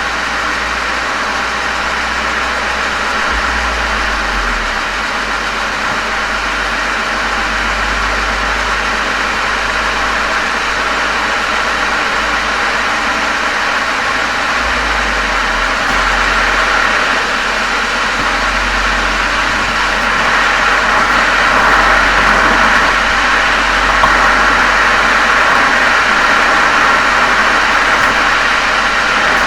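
Volkswagen Golf 7 GTI's turbocharged 2.0-litre four-cylinder running steadily through a Cox aftermarket muffler and chamber, picked up by a microphone at the rear of the car. It gets slightly louder about two-thirds of the way in.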